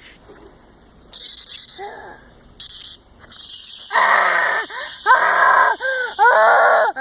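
A cicada buzzing, first in short spells and then steadily from about three seconds in. From about four seconds in, a young child cries and whines in a series of drawn-out wails over it.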